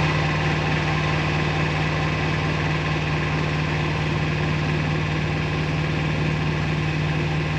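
Sailboat's inboard engine running steadily at cruising speed, a constant hum over an even, rapid low beat.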